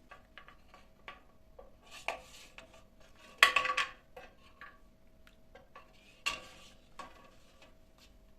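Kitchenware being handled: scattered light clinks and knocks, with a louder clattering rattle about three and a half seconds in and a sharp knock a few seconds later.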